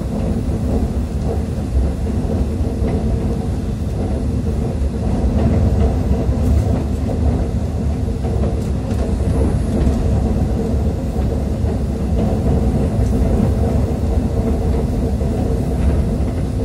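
Passenger train running at speed, heard from on board: a steady low rumble of wheels on the rails with a few faint clicks.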